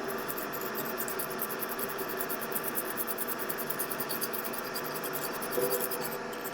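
A small hand tool scratching rapidly over a circuit board, in quick repeated strokes: burnt flux residue being scrubbed off the board around a charging port.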